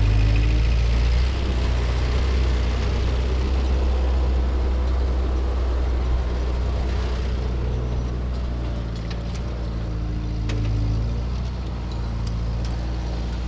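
Ford N-series tractor's four-cylinder flathead engine running steadily while pulling a Ferguson cultivator through garden soil, its loudness rising and falling slightly with the load.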